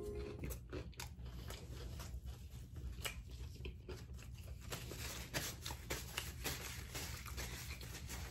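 Faint chewing of a crispy fried chicken sandwich, with scattered mouth clicks and the rustle of a paper napkin being handled, over a low steady hum.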